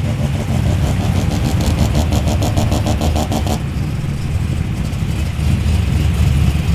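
Modified muscle car engine idling, with a regular pulsing in the exhaust note that stops about three and a half seconds in, leaving a steadier low engine sound.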